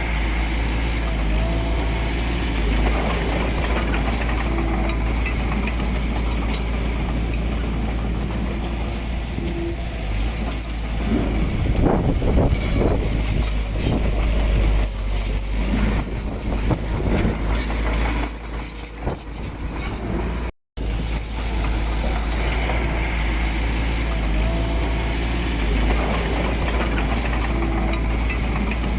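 Heavy diesel earthmoving machinery working with a steady low engine rumble. From about a third of the way in there is a busier stretch of metallic clanks and squeaks, and the sound cuts out completely for a moment about two-thirds through.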